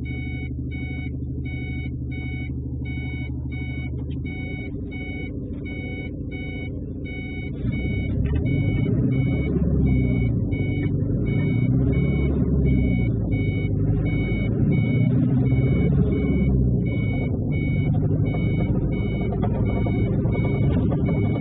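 Truck engine running with a low rumble, growing louder and rougher about eight seconds in as it works harder, while a high electronic beep repeats about twice a second throughout.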